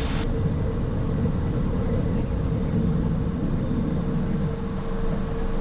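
Steady cabin noise inside the cockpit of a twin-turbofan Cessna Citation Excel climbing out just after takeoff: an even rush of engine and airflow noise with a thin steady hum.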